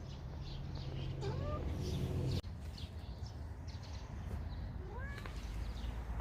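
Domestic cat meowing twice: two short calls, one about a second in and the other about five seconds in.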